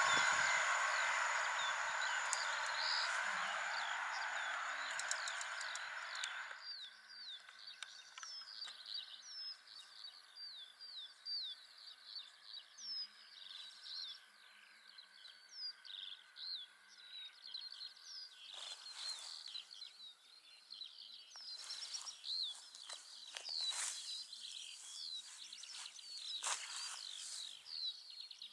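A passenger train rolls away along the rails, its noise fading over about six seconds, and then cuts off. Small birds chirp steadily after that, with a few short knocks near the end.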